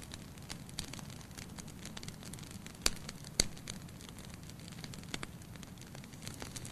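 Wood fire burning in a fireplace: a steady low hiss of flames with scattered sharp crackles, and two louder pops about half a second apart near the middle.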